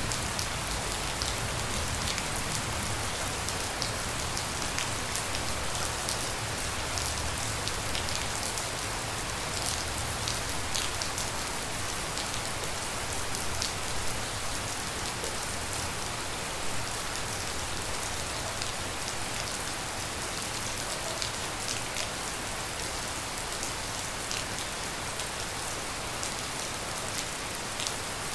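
Steady tropical rain, with many separate drops ticking sharply close by.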